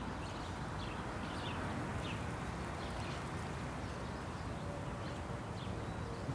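Faint steady background noise with scattered short, high bird chirps.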